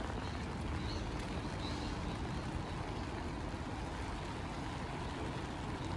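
Steady rain hiss over a low, even rumble of vehicles, with no build-up or sudden events.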